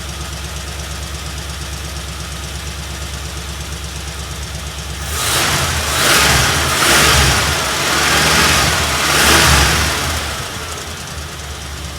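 Ford F100 engine idling with an even beat, then revved in several swells for about five seconds before settling back to idle. It is running on fuel drawn from a newly installed gas tank, with no leaks.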